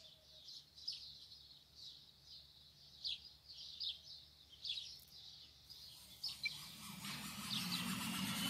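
Small birds chirping faintly, several short chirps a second. About seven seconds in, a video's intro sound starts playing through the car's speakers from the Android head unit and grows louder, rising in pitch.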